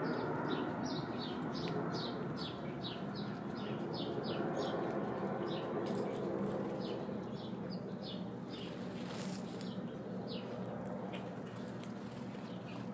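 Small birds chirping: many short chirps that fall in pitch, several a second at first and thinning out after the middle, over a steady rushing background noise.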